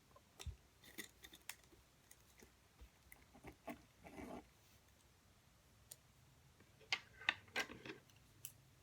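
Desk sounds from someone studying: scattered small clicks and taps of objects being handled, with a brief scratchy rustle about four seconds in and a quick run of sharper clicks near the end.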